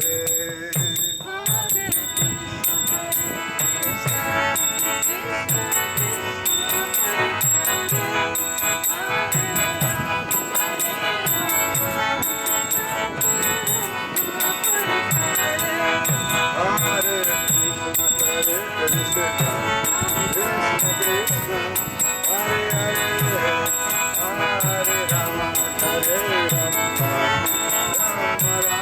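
Kirtan music: small hand cymbals (karatalas) clash in a steady, fast rhythm over repeated drum strokes and sustained pitched tones.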